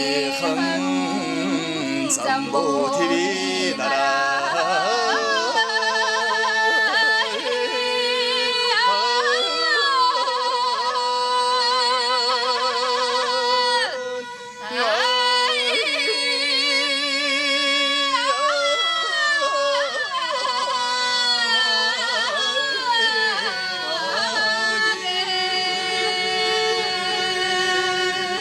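Mongolian folk band performing a song: a melody that wavers in wide vibrato and slides between notes, with a short break about halfway through.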